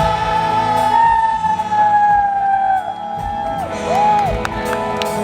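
A female singer holding one long high note over a live band, followed by a short sung phrase about four seconds in, with drum hits near the end; the loud concert sound comes through distorted on the recording.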